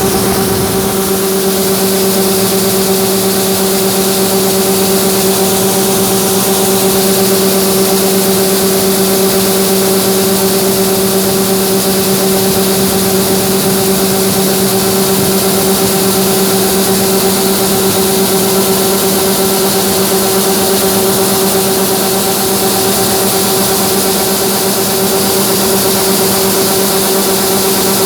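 Large diesel farm machinery running at a constant speed: a loud, even drone with a steady hum and whine that never changes.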